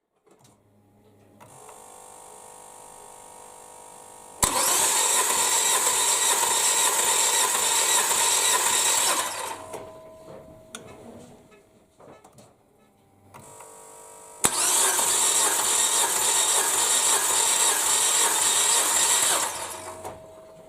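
Nissan Tiida engine turned over on the starter twice, about five seconds each time, without starting. Each cranking begins with a sharp click.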